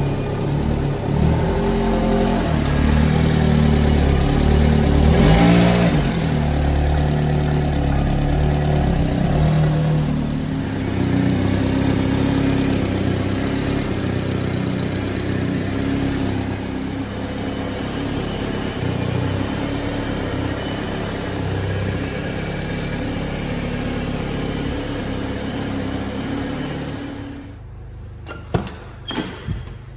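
1993 Subaru Sambar kei truck's 660 cc four-cylinder engine running, uneven and louder for the first ten seconds or so, then steady. Near the end the engine sound drops away, and a few sharp clicks follow.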